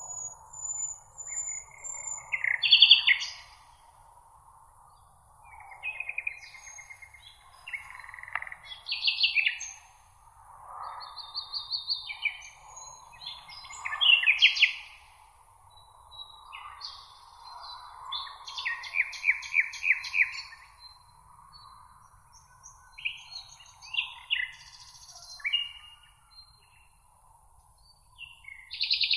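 Meadow songbirds singing: short phrases of chirps and rapid trills follow one another with brief gaps, over a faint, steady high hiss.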